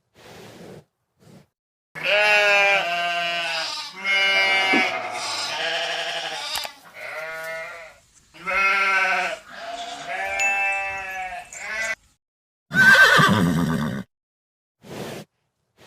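Repeated calls from a farm animal: about seven drawn-out, wavering cries of a second or two each, with short pauses between them.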